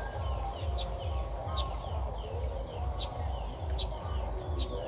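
Small birds chirping outdoors, short sharp calls repeating every half second or so, over a steady low rumble.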